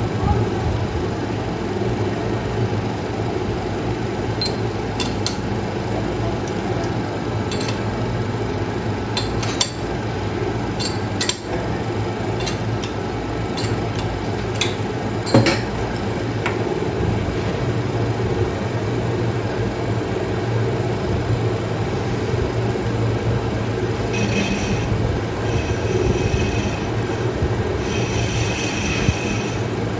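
A workshop machine running with a steady low hum. About a handful of light metallic clinks and taps come in the first half, and near the end come short spells of a higher metallic ringing.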